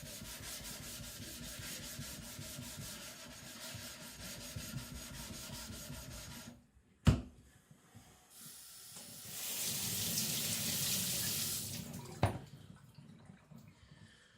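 Water running from a tap in two spells, about six seconds and then about three seconds, the second one louder and hissier. There is a sharp knock between them and another knock right after the second.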